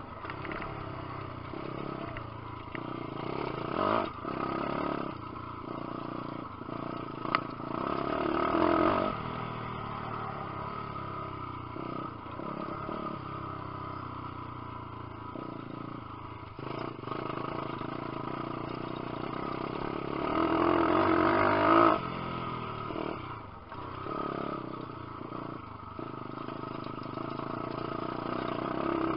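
Lifan 150cc single-cylinder four-stroke pit bike engine running while being ridden, its revs rising and falling with the throttle, hardest about two-thirds of the way through. A single sharp knock about a quarter of the way in.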